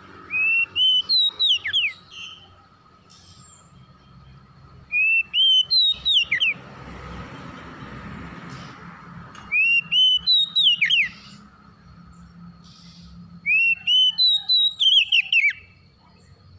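Oriental magpie-robin (kacer) singing: the same loud whistled phrase four times, a few seconds apart, each a couple of rising notes followed by quick falling sweeps, over a faint steady background hum.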